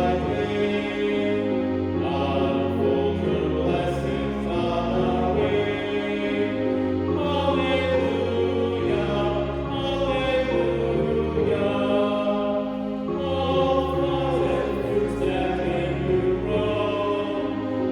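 Choir singing sacred music in sustained chords that change every second or two.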